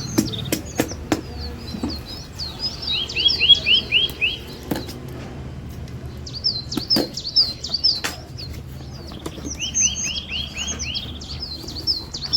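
A songbird singing two long phrases of quick, high chirps and twitters. Each phrase holds a short run of clear down-slurred notes. Scattered sharp clicks come through under the song.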